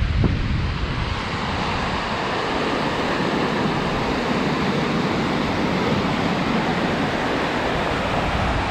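Steady rush of wind noise on the microphone.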